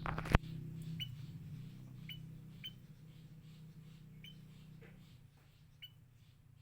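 Sooty-headed bulbul chicks giving short, high chirps at irregular intervals, about six in all. A sharp click comes just after the start, and a low hum fades away underneath.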